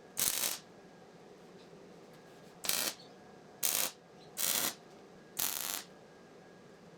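MIG welder laying tack welds on steel: five short bursts of welding crackle, each under half a second, about a second apart.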